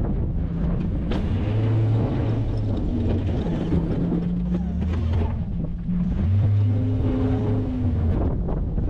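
Truck engine running under load while plowing, its pitch rising and falling several times.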